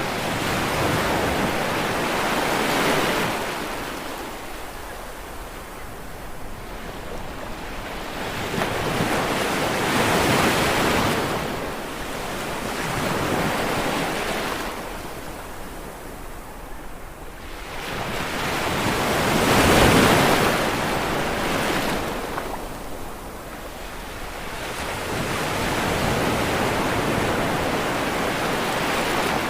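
Sea waves washing onto a shore, the surf rising and falling every few seconds, with the loudest wave breaking about two-thirds of the way through.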